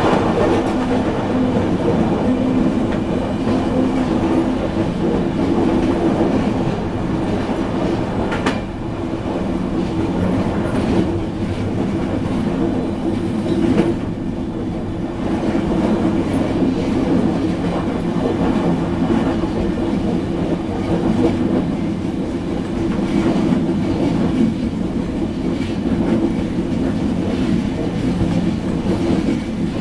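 Passenger train running along the track, heard from inside its last carriage: a steady rumble of wheels on rails, with one sharp click about eight and a half seconds in.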